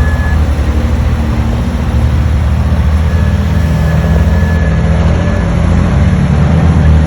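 Heavy diesel engine of earthmoving machinery running steadily with a deep, fast pulsing beat. A faint high steady tone sounds for about two seconds midway.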